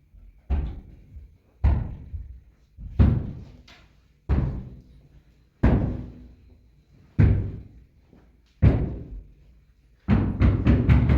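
A series of heavy thuds or blows, each ringing briefly and fading, about one every second and a half, then a quick run of four or five blows near the end.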